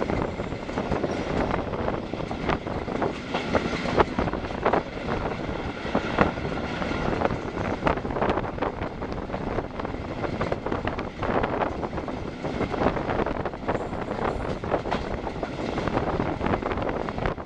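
Passenger train running at speed, its wheels clattering over the rails with many irregular sharp knocks, and wind rushing over the microphone at the open carriage window.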